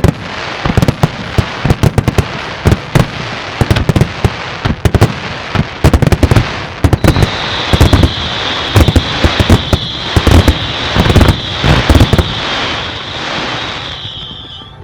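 Fireworks going off in a dense, rapid barrage of booming bursts and crackles. From about halfway in, a steady high whistle runs under the bangs until just before the end.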